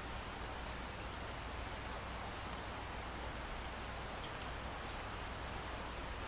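Steady rainfall, an even hiss of raindrops with a low rumble beneath.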